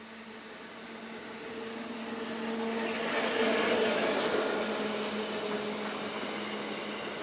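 A train approaching and passing, growing louder to a peak about four seconds in and then easing off, with a steady motor hum under the rising noise of the wheels on the rails.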